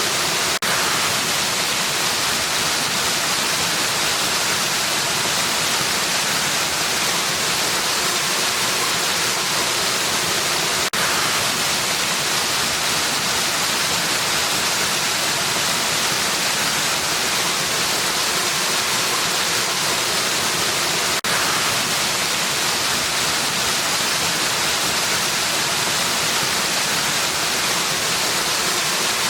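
Waterfall, water rushing steadily as an even hiss with its strength in the high range. A faint click comes about every ten seconds.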